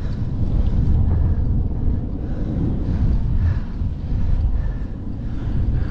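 Wind buffeting the microphone with a steady rumble of tyres on the road while riding a bicycle towing a cargo trailer.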